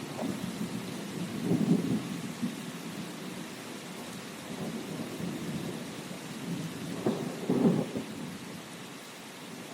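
Steady rain with thunder rumbling low, swelling twice: once about one and a half seconds in and more strongly about seven and a half seconds in, then fading.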